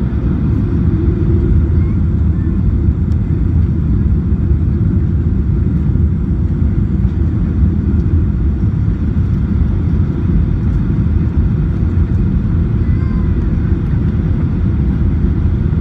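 Steady low rumble of a Boeing 737-800's jet engines and rushing air, heard from inside the passenger cabin.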